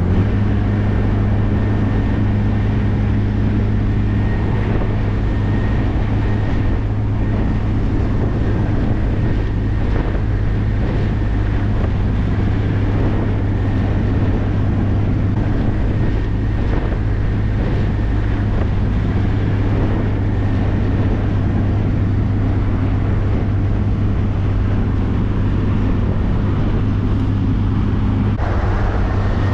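MG Midget engine running steadily at cruising speed, heard from the open cockpit with wind and road noise. The engine note changes near the end.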